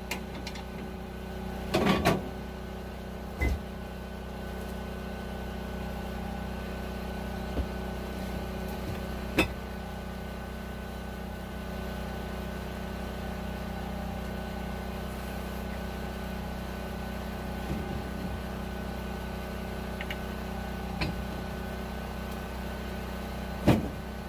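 A steady low hum with a few scattered knocks and clinks, four or five over about twenty seconds, as the wood cook stove is tended while its fire catches from the transferred embers.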